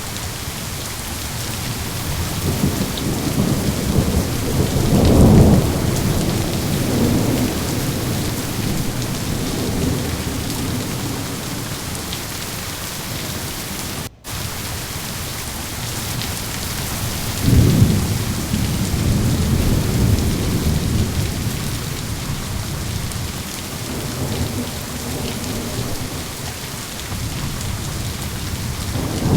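Steady heavy rain hissing, with rolling thunder rumbling in twice: one swells and fades over the first several seconds, and a second breaks in suddenly a little past halfway and rolls on for a few seconds. A split-second dropout in the sound comes just before the middle.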